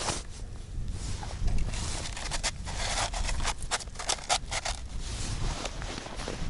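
A quick, irregular run of scraping, crunching strokes in snow about halfway through, over wind rumbling on the microphone.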